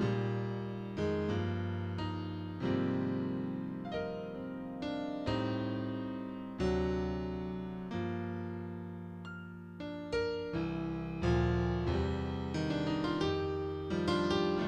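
Piano playing slow chords, each struck and left to ring and fade, with a new chord about every second or so.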